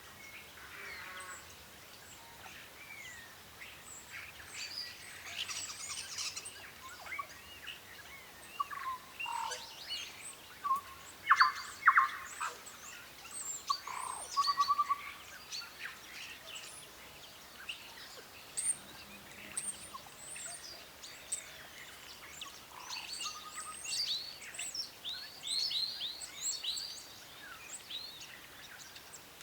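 Several birds calling and chirping together, with many short overlapping chirps and whistles and a few louder calls about midway.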